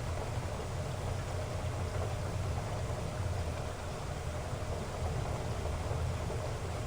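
Heavy rain falling steadily: an even, dense hiss with a low rumble underneath.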